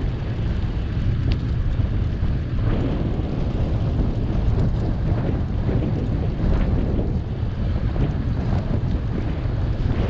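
Wind buffeting the microphone of a camera riding on a moving bicycle: a steady low rumble, with a few faint ticks and rattles over it.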